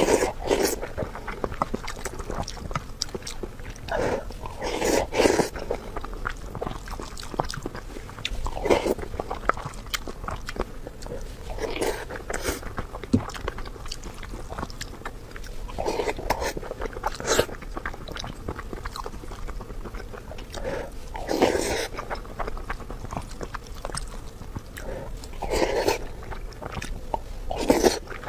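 A person eating close to the microphone: chewing and biting with many small wet clicks, and a louder mouthful sound about every four seconds.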